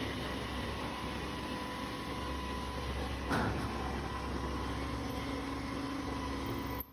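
Automatic copper tube end forming and flattening machine running: a steady mechanical hum with one sharp stroke about three seconds in, and a second steady tone joining past the middle.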